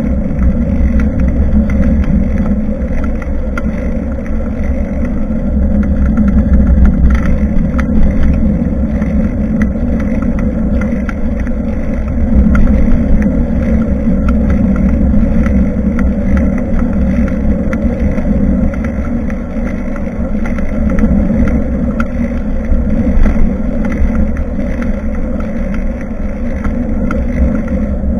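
Steady wind rumble and tyre-on-road noise on the microphone of a bike-mounted action camera while cycling, with a few faint rattling ticks.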